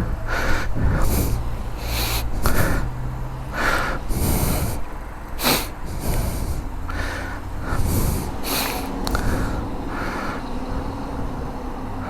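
Ducati motorcycle engine idling low and steady, with irregular short hissing bursts over it every second or so.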